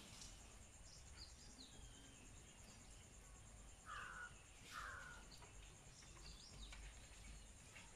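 Quiet outdoor ambience with two short, harsh bird calls about four and five seconds in, and a few faint high bird chirps scattered through.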